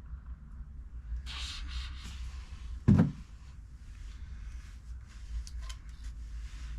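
Workshop handling noises while refilling the engine oil: a brief scraping rustle, then one sharp knock about three seconds in, followed by a few faint clicks.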